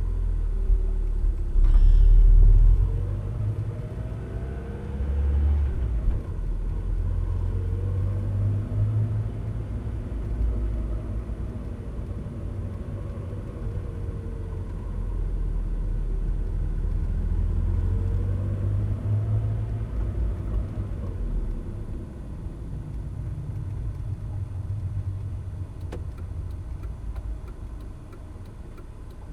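Mazda MX-5 NA Miata driving in low gears: engine and road rumble with a whine that rises and falls in pitch several times as the car pulls through about 2,000 rpm.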